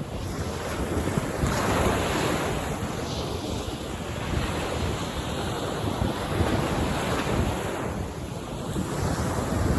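Ocean waves breaking and washing onto a beach, a steady surf that swells about a second and a half in and again near the end.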